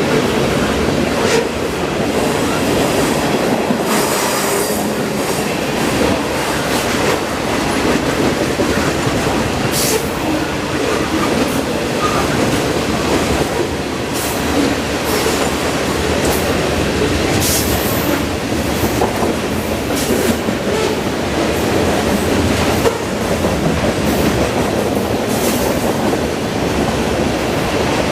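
CN freight train's cars rolling steadily past, a continuous loud rumble and clatter of steel wheels on rail, with sharp metallic clicks from wheels crossing rail joints every few seconds.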